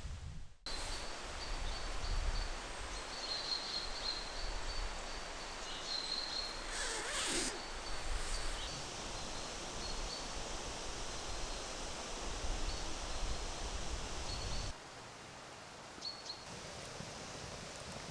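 Outdoor forest ambience: a steady low rush of air, with a faint high thin tone that comes and goes. There is one brief sweeping sound about seven seconds in, and the background drops abruptly near the end.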